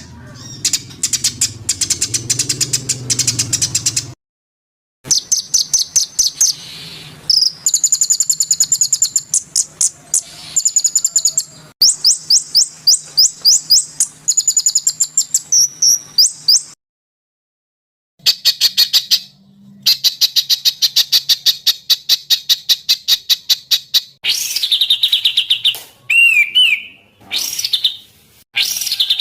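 Songbirds singing: fast trains of high, repeated chirps and trills, in spliced clips that stop abruptly, with short silent gaps about 4 seconds in and about 17 seconds in.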